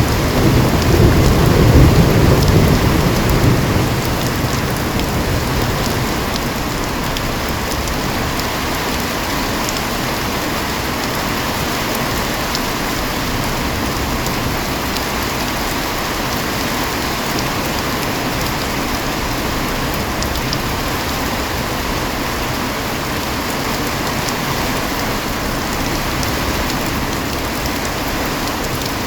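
Heavy rain falling steadily. A low roll of thunder rumbles in the first few seconds and dies away by about five seconds in.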